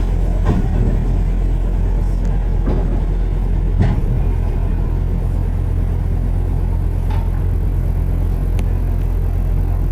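Steady low rumble of a road vehicle in motion, with a few brief knocks or rattles over it.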